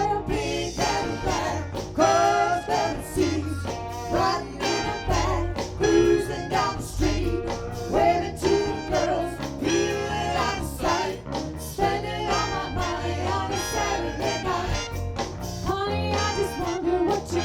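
Live soul band playing a song, with a steady drum-and-bass beat under pitched instruments and voice.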